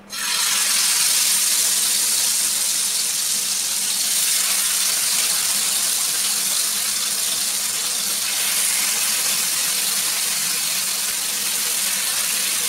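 Marinated chicken pieces frying in hot oil on a tawa: a loud, steady sizzle that starts suddenly as the first piece goes onto the pan.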